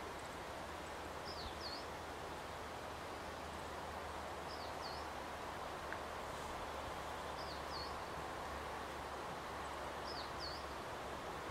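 Steady outdoor background noise, with a small bird's short high call of two or three quick notes repeating four times, about every three seconds.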